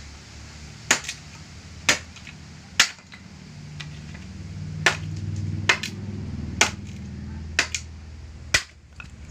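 A series of sharp strikes, about one a second, some followed by a quick second hit. A low hum swells in the middle and fades near the end.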